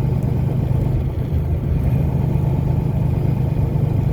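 A car driving along: a steady low rumble of engine and tyres on the road, with no changes or distinct events.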